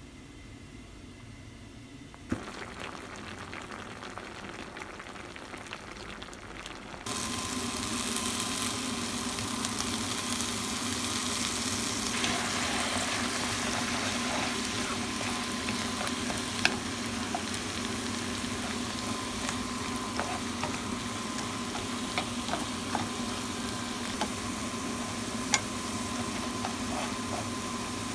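Sweet potato stems sizzling as they stir-fry in an oiled frying pan, with scattered sharp clicks from the stirring. The sizzle jumps up about seven seconds in after a quieter start, then holds steady.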